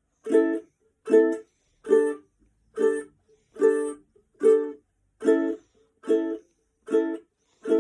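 Ukulele strummed in single chord strokes, about ten evenly spaced strums a little more than one a second. Each chord is cut short and dies away before the next.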